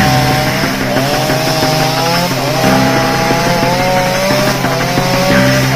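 Chainsaw running steadily, its engine pitch rising and dipping again and again as it cuts through wood.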